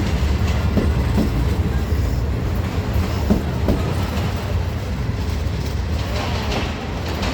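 Train running on rails: a steady low rumble with a few wheel clicks over the rail joints.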